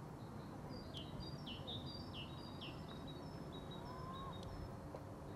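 A small songbird sings a repeated two-note phrase of high chirps, about two a second, alternating a flat higher note with a lower falling note. Under it runs a steady low outdoor background noise.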